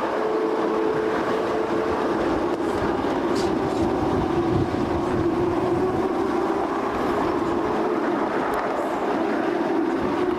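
A narrow-gauge railway coach running along the track: a continuous rumble of wheels on rail, with a steady whine running through it.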